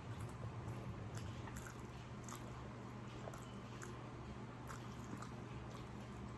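A person eating close to the microphone: quiet chewing with small irregular wet mouth clicks. A steady low hum runs underneath.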